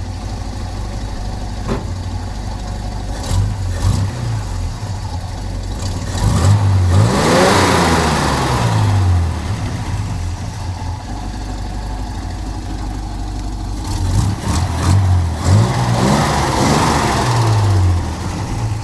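An engine idling, then revved up twice, its pitch climbing and falling back each time.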